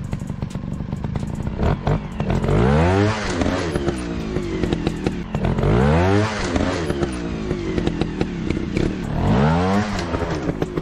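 Dirt bike engine revving up and falling back three times, with a steady rough running in between.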